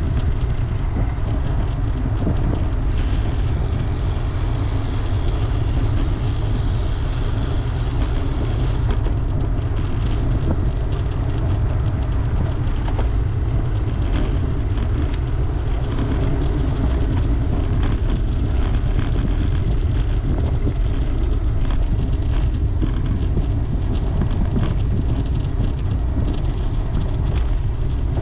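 Steady low wind rumble buffeting the microphone of a camera riding along on a road bicycle, at an even level, with a brighter hiss joining for about six seconds a few seconds in.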